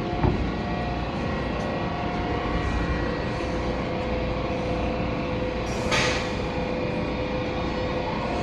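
Washington Metro train pulling out of the station: a steady rumble with a hum of several held tones, and a short hiss about six seconds in.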